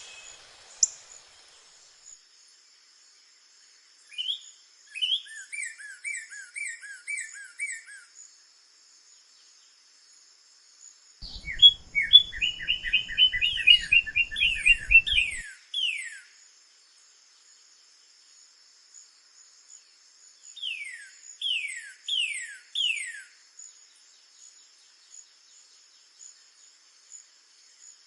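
Northern cardinal singing three phrases of repeated down-slurred whistles, each phrase a few seconds long with pauses between. A steady high insect drone runs underneath.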